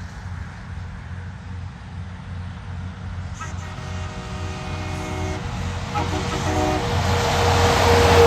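Truck approaching with a low rumble, sounding a multi-note air horn twice: a long blast about three and a half seconds in and a shorter one about six seconds in. It then grows louder as it closes in, its whine dropping slightly in pitch near the end as it passes.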